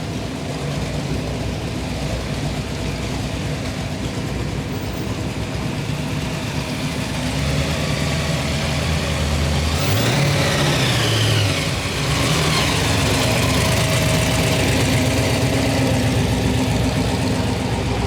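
Hot rod and muscle car engines rumbling at low speed as cars roll in. The sound gets louder about ten seconds in, with one engine briefly rising and falling in pitch.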